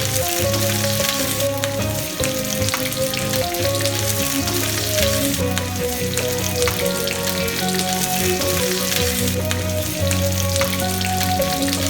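Food sizzling and crackling steadily in hot oil in a pan, with scattered small ticks, over background music with a slow melody.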